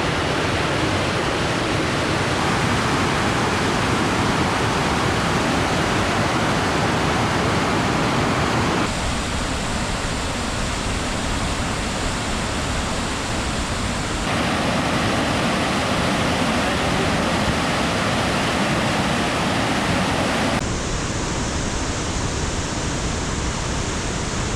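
Steady rushing of a large waterfall, a dense even noise across all pitches, its tone shifting abruptly about 9, 14 and 21 seconds in.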